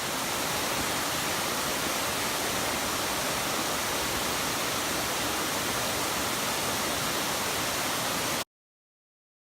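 Helton Creek Falls, a two-part waterfall, pouring with a steady rush of water that cuts off suddenly near the end.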